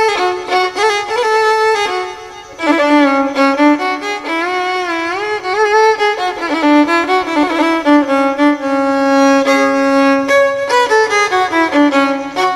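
Background music: a solo violin playing a gliding, ornamented melody with vibrato, briefly dropping out about two seconds in.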